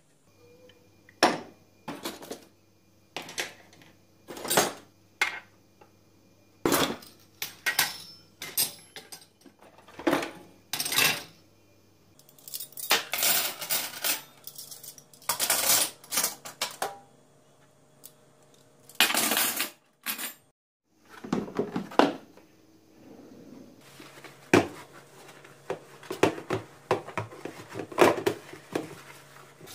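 Dishes and cutlery being handled and set down: a long series of separate clinks, knocks and clatters of crockery and metal.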